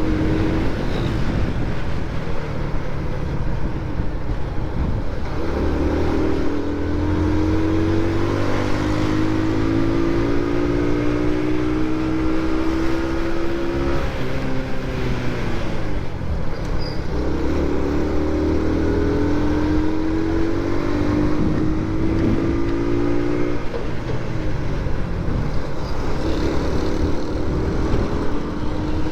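Motorcycle engine under way, its pitch climbing steadily as it pulls and then falling away, three times over, with steady road and wind noise underneath.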